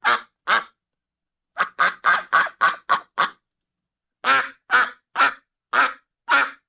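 A duck quacking in rasping calls: two quacks, a short pause, a quick run of about seven, another pause, then five more about half a second apart.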